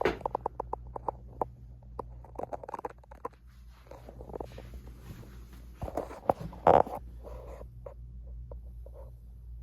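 Antique Mathes Cooler box fan's electric motor humming steadily with a low buzz, under a series of clicks and knocks, a quick run of them in the first second and a loudest knock about seven seconds in.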